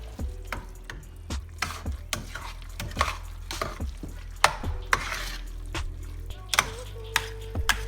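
A utensil stirring and tossing pasta in a pan, with irregular clacks and scrapes against the pan.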